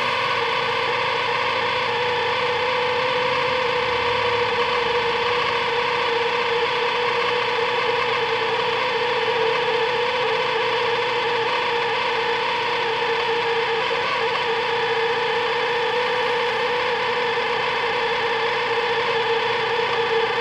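Sharp Half-Pint microwave oven running: a steady, loud electrical hum and fan drone that does not change.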